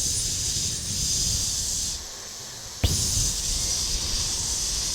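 Cicadas buzzing in the trees, a dense high-pitched hiss that drops away about two seconds in and cuts back in abruptly about three seconds in.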